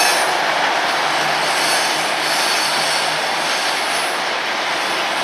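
Container freight train's flat wagons rolling past close by: a steady rush of steel wheels on rail, with a high hiss that swells and fades.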